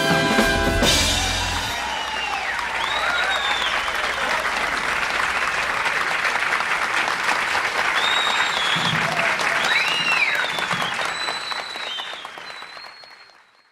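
An audience applauding, with whistles and cheers, as a held final chord ends about a second in. The applause fades out near the end.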